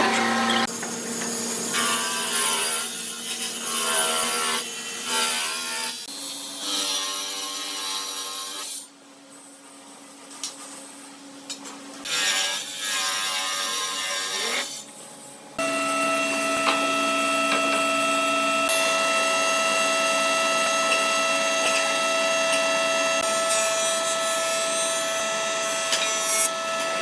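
Power tools working wood, heard in several short segments that change abruptly. From a little past the middle, a power tool motor runs with a steady whine.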